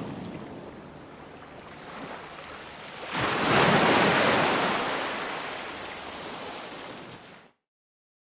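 Ocean waves breaking: a wave crashes a little after three seconds in and washes back out as it fades. The sound then cuts off suddenly to dead silence about a second before the end.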